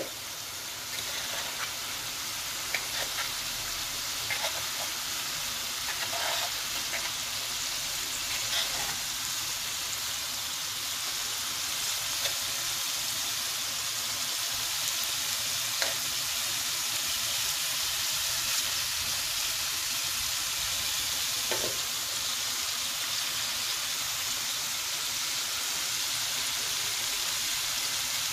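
Chicken pieces sizzling in a tawa on high heat as the last of the cooking water boils off: a steady frying hiss that grows slightly louder, with scattered pops and crackles.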